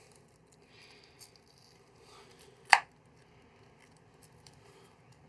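Mostly quiet, with faint rustling and handling sounds and one sharp click a little under three seconds in.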